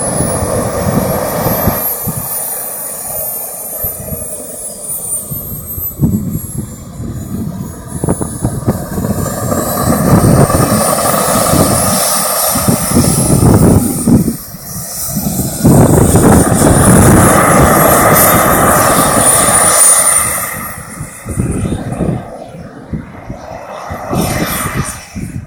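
Radio-controlled model jet running through its take-off: a high-pitched whine that rises and falls slowly several times over a loud rushing noise.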